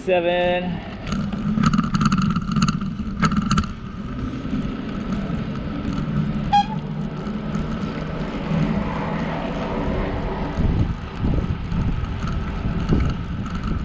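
Bicycle riding noise: a steady hum from tyres rolling on the path, with rattling clicks in the first few seconds and wind buffeting the microphone near the end.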